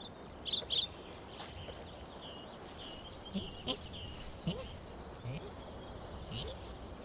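Faint birdsong: a few short high chirps, then a quick twittering trill near the end, over quiet outdoor background ambience.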